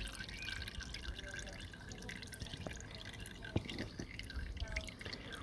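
Engine oil draining from a Kawasaki ZXR400's sump into a drain pan, with faint, irregular dripping and trickling.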